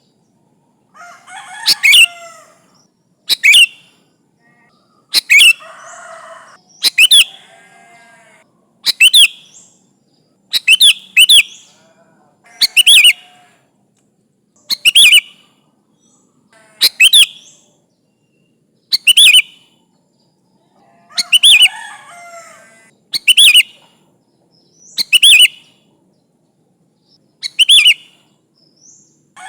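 Sooty-headed bulbul (kutilang) calling over and over, a short, loud, high phrase about every two seconds, with softer chattering between some of the phrases.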